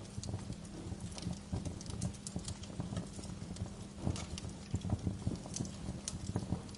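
Wood fire crackling in a fireplace: irregular sharp snaps and pops, some in quick clusters, over a low steady rumble of the burning.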